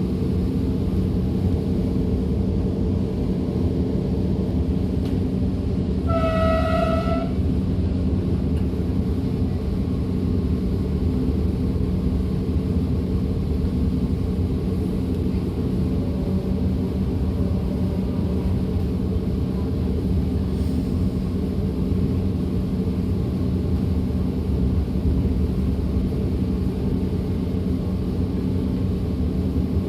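DB Class 425 electric multiple unit running, heard from inside the train: a steady rumble of wheels on track with a constant electric hum. About six seconds in a horn sounds once, briefly.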